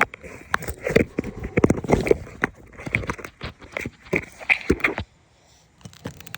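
A rapid, irregular run of knocks, clicks and scrapes from hands and a tool working on asphalt roof shingles. The knocking stops about five seconds in.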